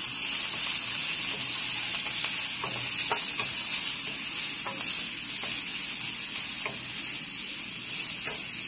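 Chopped onions and whole spices sizzling in hot oil in a stainless-steel pan as they are sautéed. A wooden spoon stirs them, scraping and knocking lightly on the pan now and then.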